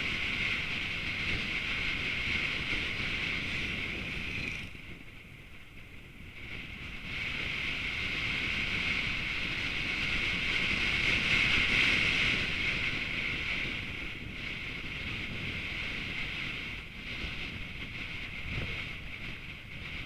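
Wind and road noise from a moving vehicle, a steady rushing hiss over a low rumble, easing off for a couple of seconds about five seconds in and then building again.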